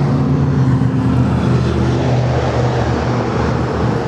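Ducati 848 EVO's 849cc liquid-cooled L-twin engine idling steadily, its low, even beat holding at one speed.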